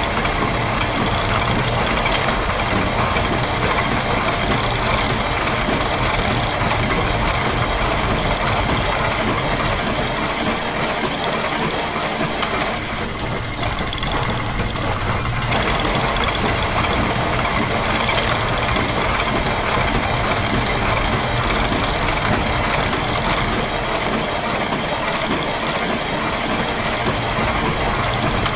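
A dense, continuous bed of layered machine sounds: gears, ratchets and other mechanisms clicking and clattering in overlapping loops over a low mechanical hum. The high clatter drops out for a couple of seconds about halfway through.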